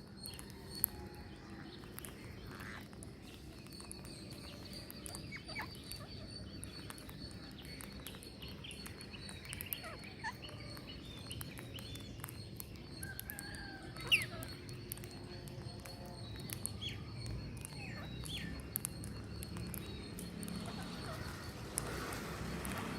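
Birds calling in short, scattered chirps and squawks, over a steady low rumble and a thin, steady high tone.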